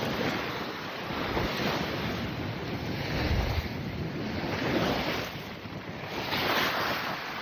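Wind buffeting the microphone over the wash of waves at sea, swelling and easing every second or two.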